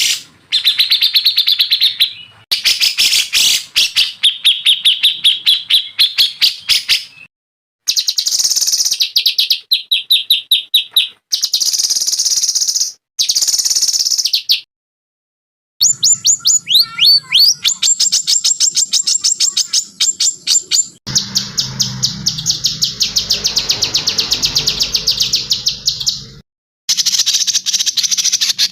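Songbird song: fast, high trills and rapidly repeated chirping notes in several separate bursts, each of which stops dead into a short silence, as in edited recordings spliced together. About 16 seconds in there are quick up-and-down whistled sweeps before a long, dense trill.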